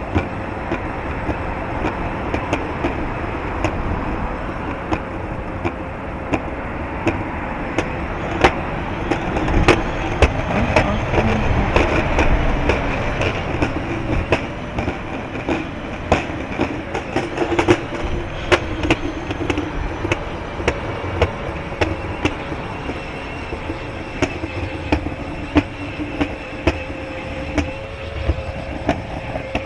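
Wind buffeting the microphone over steady rolling noise, with irregular sharp clicks and knocks all through and a faint steady hum; the wind noise swells for a few seconds about a third of the way in.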